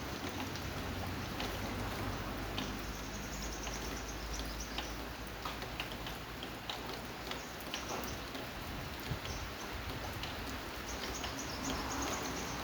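Rain falling steadily: an even hiss with many irregular drops ticking and dripping on a surface.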